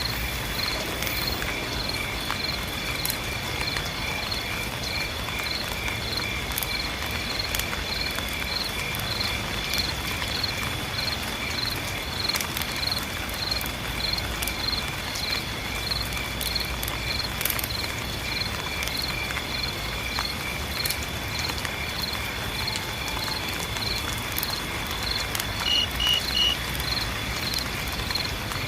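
Insects chirping in a steady rhythm, about two chirps a second, over a continuous high insect drone and a wash of light rain. Three quick higher chirps come near the end.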